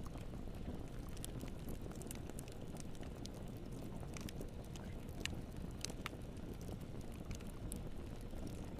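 Wood fire burning in a fireplace: a steady low rumble with irregular sharp crackles and pops scattered through it.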